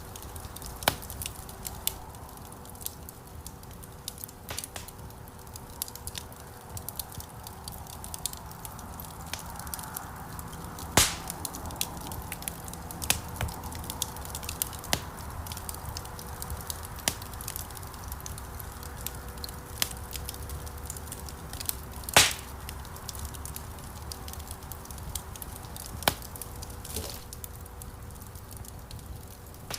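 Wood fire crackling in a stone fireplace: irregular sharp pops and snaps over a low rumble of burning flames. Two pops are louder than the rest, about a third of the way in and again about three quarters through.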